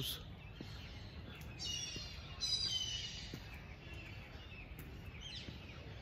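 Birds chirping and calling over a steady low outdoor background hum, with a cluster of quick high calls about two seconds in and a few more near the end.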